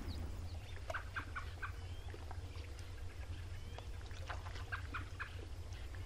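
Birds calling: two runs of short, quick calls, one about a second in and another about four to five seconds in, with a few scattered gliding notes between, over a steady low rumble.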